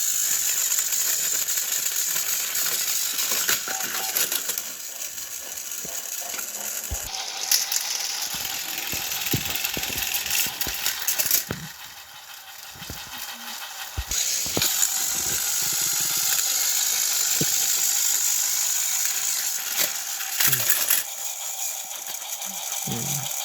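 Battery-powered toy train engines running: small electric motors whirring with gears and wheels rattling on plastic track, with scattered clicks and knocks. The whirring drops for a couple of seconds about halfway through, then picks up again.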